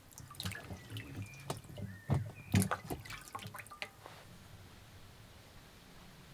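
Food-preparation handling sounds: a quick run of clicks, knocks and short clinks with some dripping liquid, loudest between about two and three seconds in. The sounds stop about four seconds in, leaving faint background.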